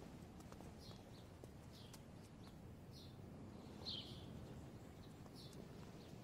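Faint bird chirps: about five short, high calls spaced roughly a second apart, over a low steady background hiss.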